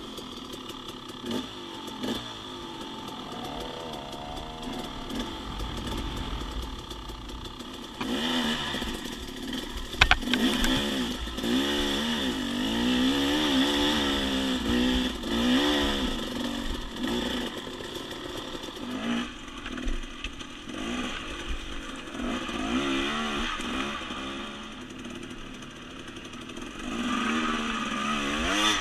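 Dirt bike engine revving up and down, its pitch rising and falling again and again with the throttle as it rides a trail, with a sharp knock about ten seconds in.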